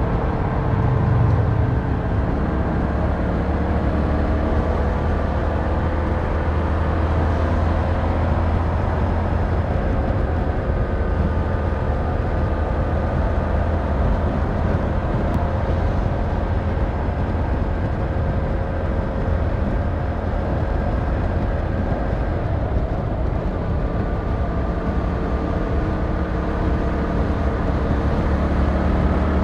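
Yamaha MT-07's 689cc parallel-twin engine and exhaust under way at a steady cruise, its note rising and falling only slightly, over a constant rush of road noise.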